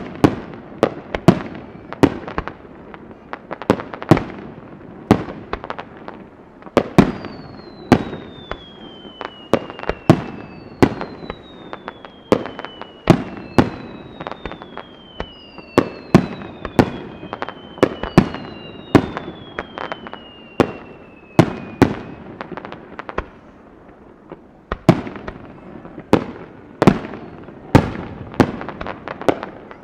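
Fireworks display: aerial shells bursting in a steady, irregular barrage of sharp bangs, one or two a second, each with an echoing tail. About a third of the way in, five long whistles follow one another, each falling in pitch over about three seconds.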